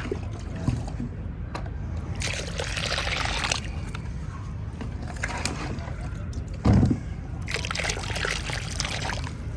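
Wet sand-cement mix sloshing and trickling as it is worked with water, in two longer bursts, with a single low thump about two-thirds of the way through.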